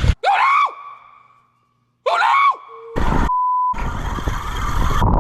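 Two short edited-in sound effects, each a quick swoop up and down in pitch that rings on briefly, with a moment of dead silence between them. Then come wind and water noise on the microphone, cut about three seconds in by a short steady censor bleep.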